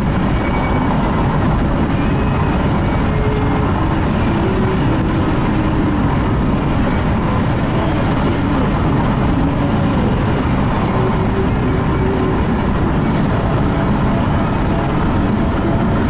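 Steady road and engine noise heard inside a moving vehicle's cabin, a continuous low rumble with no change in level.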